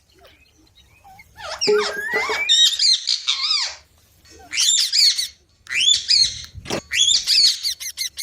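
Young green pet parrot, a rose-ringed parakeet, squawking and chirping harshly in three bursts of quick rising and falling calls, starting about a second and a half in. The owner takes the calls for the bird angrily scolding.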